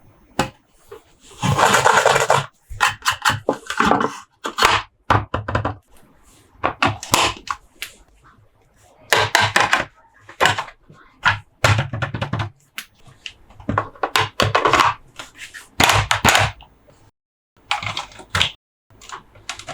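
Toy packaging being handled and opened: bursts of crinkling and scraping with many sharp clicks and knocks, from cardboard, plastic and small plastic toy parts.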